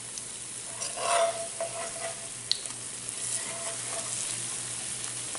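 Gram-flour-battered bread pakoda shallow-frying in a little oil in a non-stick pan, sizzling steadily while a steel spatula scrapes and pushes it around the pan to crisp its edges. A single sharp click comes about halfway through.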